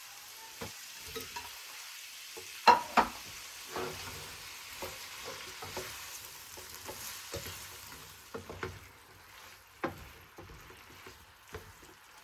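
Food sizzling as it fries in a pan, with a utensil stirring and knocking against the pan several times, most sharply about three seconds in. The sizzle grows fainter in the last few seconds.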